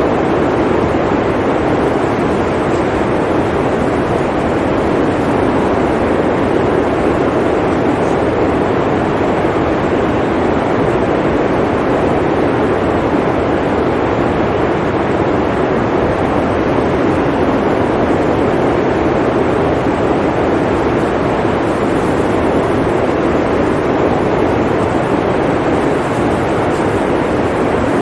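Blizzard wind blowing steadily: a dense, even rush of noise, strongest in the lower middle, with no separate events.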